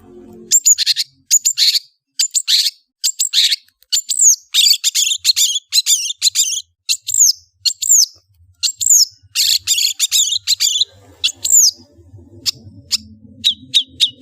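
Long-tailed shrike (cendet) singing: a fast run of harsh, scratchy chattering notes mixed with short high whistles that drop in pitch.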